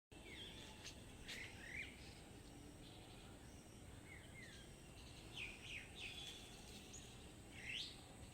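Birds chirping outdoors: scattered short calls, each a quick sweep in pitch, over a faint steady background rumble.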